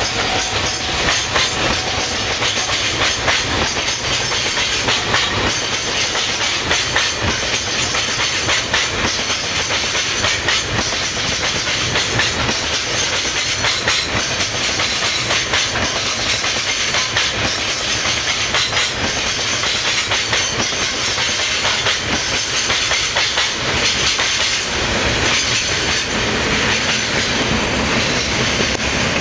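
Freight train rolling past, its wagon wheels clattering steadily over the rail joints in a rapid run of clicks, with a deeper rumble coming in near the end.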